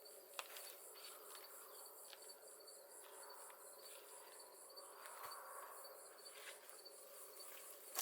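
Insects chirping in a steady rhythm, about five pulses a second, with a few faint clicks and taps of hand work, the sharpest near the end.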